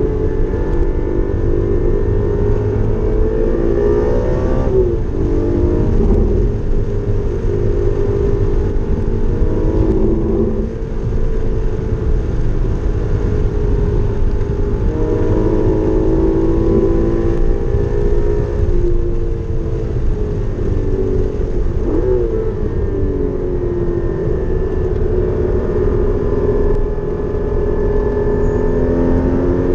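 Porsche Cayman GT4's naturally aspirated flat-six being driven hard on a track lap. The revs climb and fall again and again through gear changes and braking zones, over a steady low rumble.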